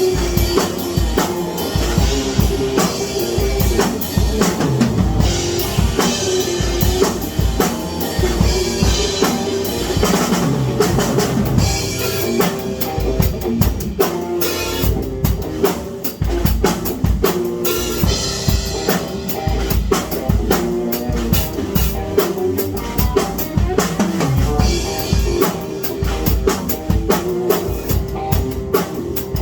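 Music driven by a drum kit played continuously: fast kick drum and snare hits with cymbals, over a sustained pitched note from another instrument.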